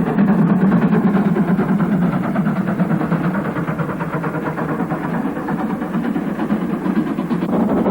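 Steam locomotive working upgrade at the head of a freight train: a loud, steady sound of the engine and its train passing.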